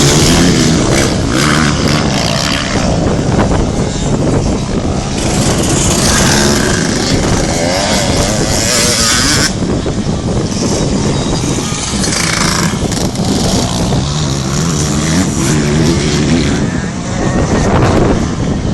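Motocross bike engines running and revving on a dirt track, rising and falling in pitch. Gusty wind buffets the microphone.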